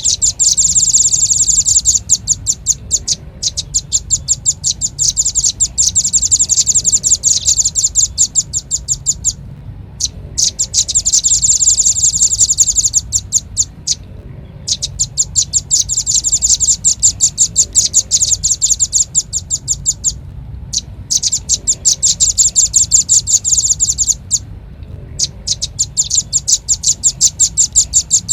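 Velvet-fronted nuthatch calls played as a bird lure: rapid, high-pitched chirps in bouts of several seconds with short breaks between them, over a faint low hum.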